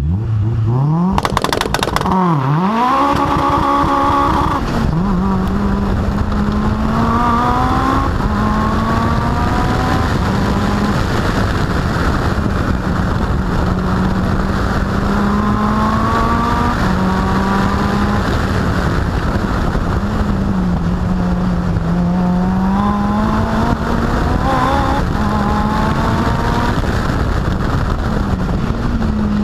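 Mitsubishi Lancer Evolution's turbocharged four-cylinder engine launching off the start line. It revs up sharply, drops and climbs again through the first gear changes, then runs hard at high revs, its pitch sagging and rising through the corners.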